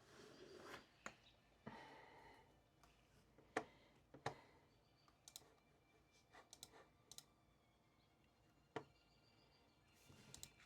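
Faint, irregular clicks and taps from small objects being handled while studying, about a dozen spread unevenly, with a soft rustle in the first two seconds.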